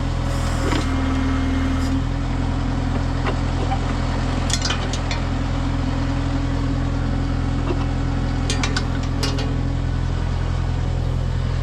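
Kubota M6060 tractor's four-cylinder diesel engine running steadily while its backhoe digs in rocky ground. A few sharp knocks and scrapes of the bucket on rock come about four and a half and eight and a half seconds in.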